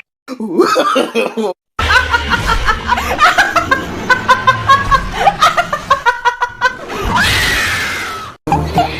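Laughter in a quick run of short bursts, broken by abrupt edit cuts, ending in one long drawn-out cry.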